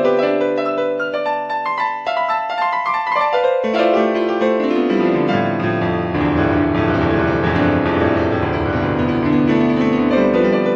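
Piano music with no speech; a deep bass note comes in about six seconds in and is held until near the end.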